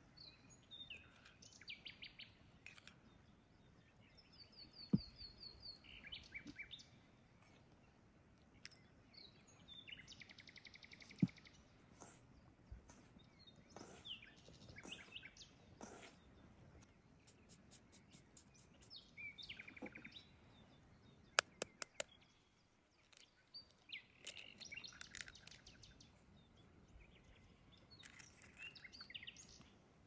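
Birds chirping and trilling on and off, a series of short high calls, with a few sharp clicks standing out as the loudest sounds, twice in quick succession about two-thirds of the way through.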